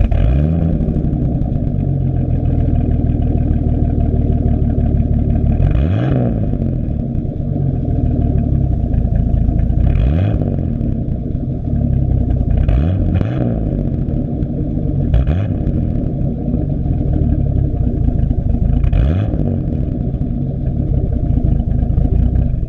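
Jeep engine running loud and steady through its exhaust with a freshly welded homemade tip, its pitch briefly shifting five or six times as the throttle is blipped.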